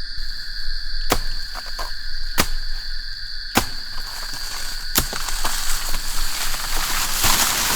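Forest insects droning steadily at dusk in two high pitches, with four sharp knocks about a second and a half apart, then a rustling crash of leaves and stems near the end.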